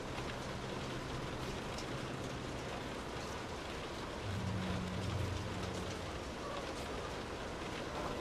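Steady rain falling, an even hiss of many drops. A low rumble swells briefly about four to five seconds in.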